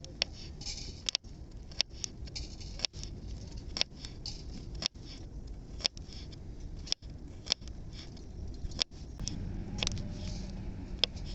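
A series of sharp clicks or taps, roughly one a second, over a low steady background.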